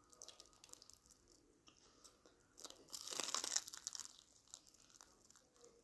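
Close-up crunching and chewing of a Korean corn dog's crisp fried batter crust, with scattered small crackles and one louder, longer crunch about three seconds in.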